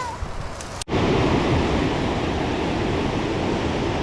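Tall mountain waterfall, a loud, steady rushing noise that begins abruptly about a second in after a brief drop-out.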